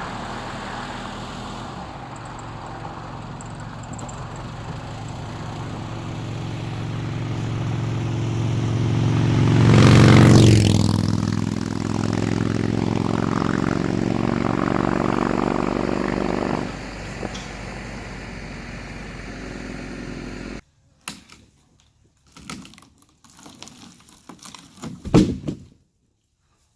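A machine's engine running steadily, building to a loud peak about ten seconds in, then settling and cutting off suddenly. A few scattered knocks and clatters follow near the end.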